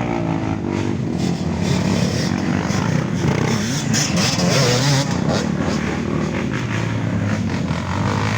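Off-road trail motorcycles revving through boggy mud, engine pitch rising and falling as the throttle is worked.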